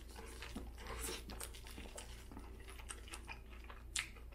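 Close-miked chewing of a mouthful of Whopper burger: irregular soft wet smacks and crunches, with one sharper smack near the end.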